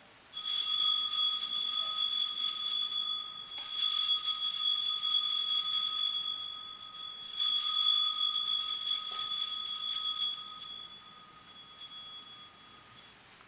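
Altar bells shaken three times at the elevation of the chalice after the consecration, each ring a few seconds of bright, high jingling, the last dying away near the end.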